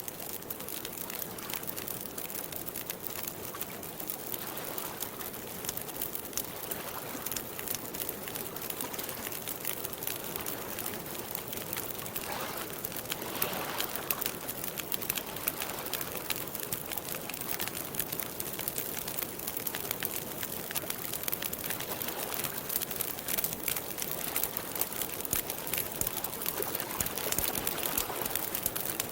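Wood campfire crackling with many small pops, over a steady wash of lapping water.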